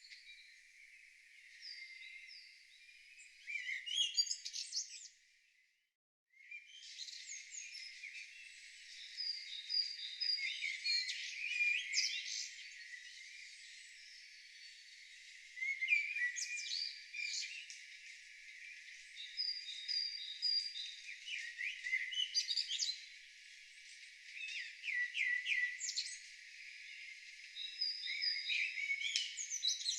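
Several songbirds singing at once in a busy chorus of chirps, trills and whistled phrases. About five seconds in, the sound cuts out for roughly a second, then the chorus resumes.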